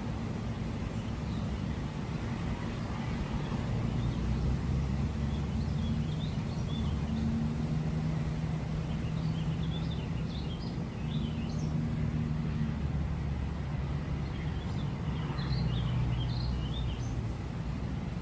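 Steady low rumble with a deep hum running under it, while small birds chirp in short bursts of quick, high notes, in three spells: about six seconds in, around ten to twelve seconds, and again near fifteen to seventeen seconds.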